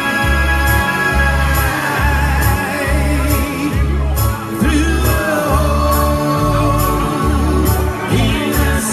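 Live rock band playing an instrumental stretch: a lead electric guitar solo with bending, gliding notes over steady bass and drums with regular cymbal hits.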